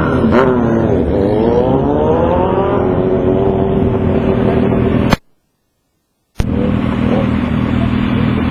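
Motorcycle engine running, its pitch rising and falling in the first few seconds and then holding steady. The sound cuts out completely for about a second past the middle, then the steady engine sound returns.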